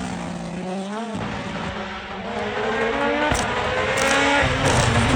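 Rally1 rally car's turbocharged four-cylinder engine at full throttle, its pitch climbing and dropping back through quick upshifts, with one sharp pop past the middle. It grows louder as the car comes closer.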